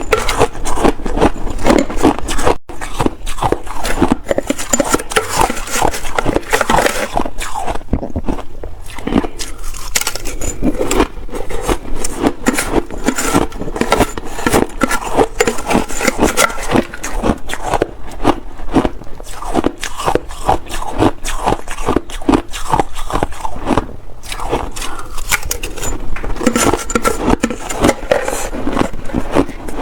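Shaved ice being crunched and chewed in big bites, a dense run of crackling crunches with no let-up.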